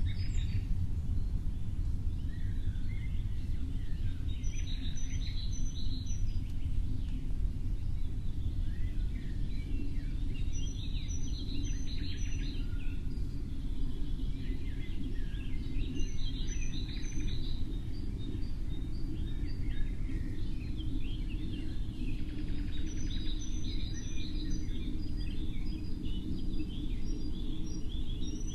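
Birds singing: one bird repeats a short, high phrase about every five to six seconds, with other chirps in between, over a steady low rumble.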